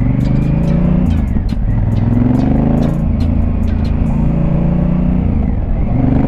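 Honda Africa Twin's parallel-twin engine pulling through the gears, rising in pitch and dropping back at gear changes about one and a half and three seconds in, then climbing again near the end. The rider calls it singing very well.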